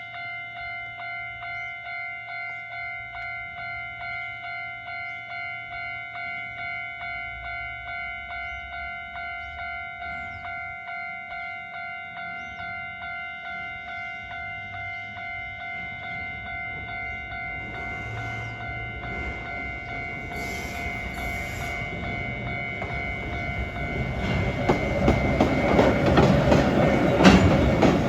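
A Japanese level-crossing warning bell rings throughout in a steady, evenly repeating electronic tone. From about 17 s in, a two-car train of the Konan Railway's ED333 electric locomotive and a Hoki hopper wagon can be heard approaching. It grows louder and clatters over the rail joints and crossing, loudest near the end.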